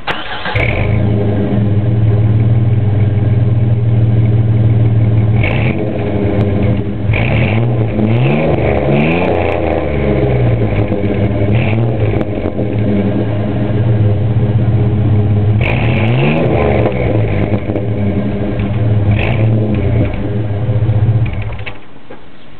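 A 1996 Chevy Blazer's 4.3 L V6 running through a Flowmaster exhaust: it starts up suddenly, idles, is revved twice, and then is shut off near the end.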